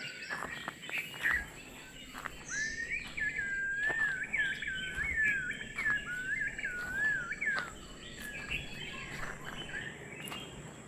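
Wild birds calling: scattered short chirps, and from about two and a half seconds in a long wavering whistled song lasting about five seconds. A sharp click comes right at the start.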